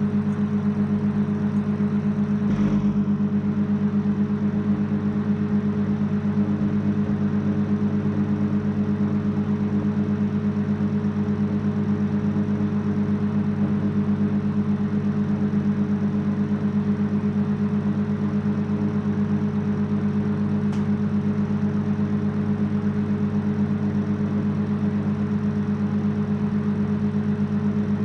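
Microwave oven running: a steady, unchanging electrical hum, with a brief click about two and a half seconds in and a faint tick near twenty seconds.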